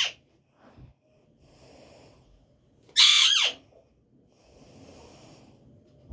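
A pet parrot screeching: a loud, harsh call about 3 s in that lasts about half a second and falls in pitch at its end, after the tail of an earlier screech right at the start.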